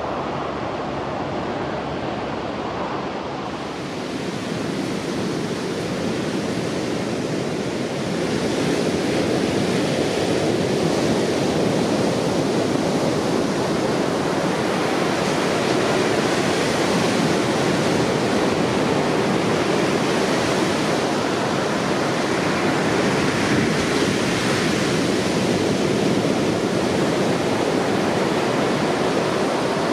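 Heavy surf from a typhoon swell breaking on the shore: a continuous rushing wash of waves that grows louder about eight seconds in.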